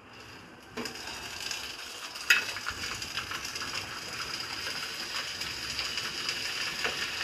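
Chicken curry with fried onions sizzling in an oily pan while being stirred with a spatula; the sizzle sets in about a second in and holds steady, with a single sharp knock about two seconds in.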